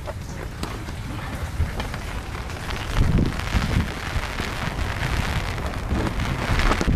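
Rain falling steadily, heavier toward the end, with a low rumble of thunder about three seconds in.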